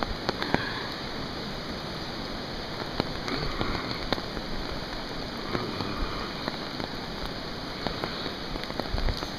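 Steady rain, with scattered sharp ticks of drops striking close by, over a continuous rushing hiss.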